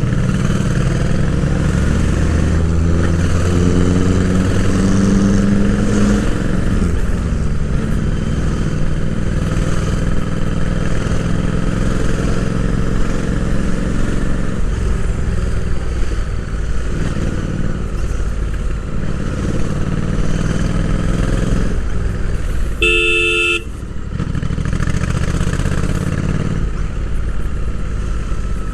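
Royal Enfield Interceptor 650's parallel-twin engine running under way, rising in pitch as it pulls up through the revs in the first few seconds, then holding fairly steady. About three quarters of the way through, a short horn toot sounds.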